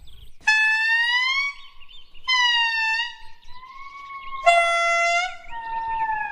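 A series of four long, clear, pitched animal calls, each lasting one to two seconds, some gliding slightly up or down in pitch. The third call is lower and starts abruptly, and the last two overlap.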